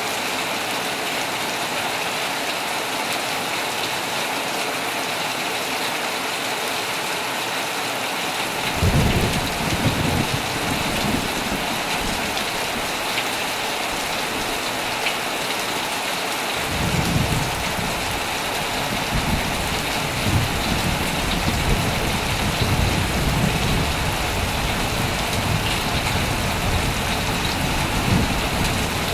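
Heavy rain falling steadily. Thunder breaks out about nine seconds in, and a second long rumble of thunder begins a few seconds later and rolls on with swells.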